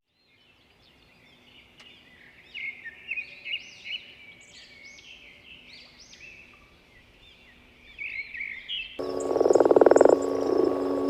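Frogs calling in a chorus of short, repeated high chirps that build up about two seconds in and thin out towards the end. A louder, different sound with steady ringing tones cuts in near the end.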